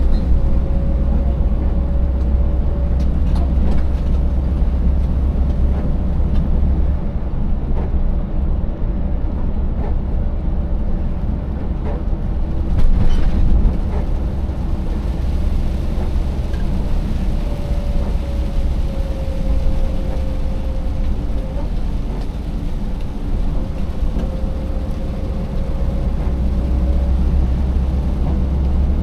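Scania 590S truck's 16-litre V8 running under way, with steady road and tyre rumble. The low engine drone eases about seven seconds in and builds again near the end. A few short knocks and rattles come through, the loudest at about thirteen seconds.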